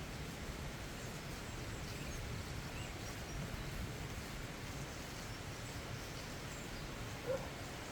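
Steady hiss of rain with a low rumble underneath and faint bird chirps, and a single short, sharp call about seven seconds in.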